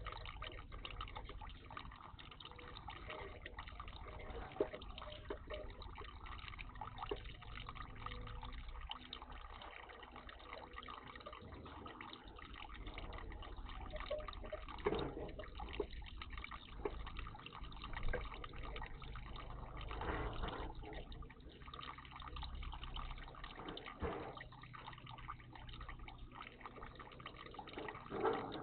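Water trickling and dripping in a bird bath, with several brief louder splashes from about halfway through and again near the end.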